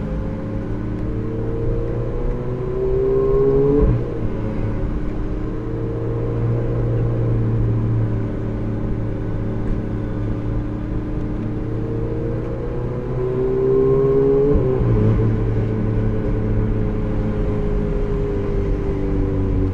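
Ferrari mid-engine V8 heard from the cabin, driven gently in town. The revs climb and drop sharply with an upshift about four seconds in, run at a steady low rev for several seconds, then climb again and drop with a second upshift near fifteen seconds.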